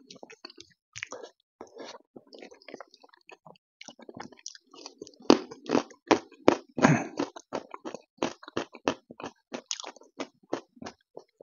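Close-miked, wet chewing and mouth smacks of a person eating rice mixed with taro-root curry. Irregular quick clicks come several times a second and grow louder about halfway through. Fingers squish and mix the rice and curry on a metal plate.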